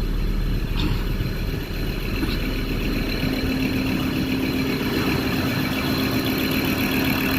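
Ford Ranger's 3.2-litre five-cylinder diesel idling steadily just after restarting, with a mild knock. The knock is put down to air still trapped in the freshly bled fuel system. A steady hum joins in about two and a half seconds in.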